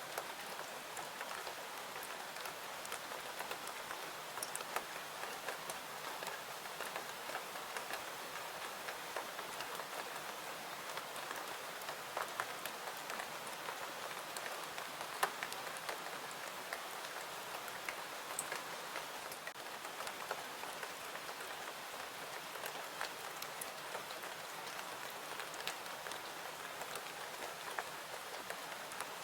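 Steady rain falling, an even hiss with many small sharp ticks and pops scattered through it.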